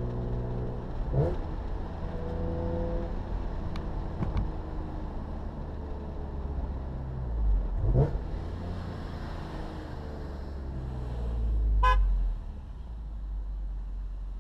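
BMW E46 M3's S54 straight-six, with aftermarket headers and a Corsa exhaust, heard from inside the cabin while driving slowly through gear changes, the revs rising and falling. A short pitched beep sounds near the end.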